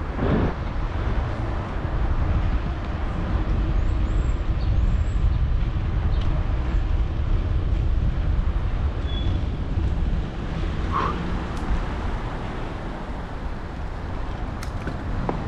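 Steady low wind rumble on the microphone of a moving bicycle, mixed with city street traffic, with a brief higher sound about eleven seconds in.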